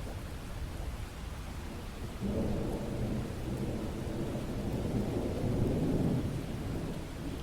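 Steady rain with a low rumble of thunder that comes in about two seconds in, swells, and fades near the end.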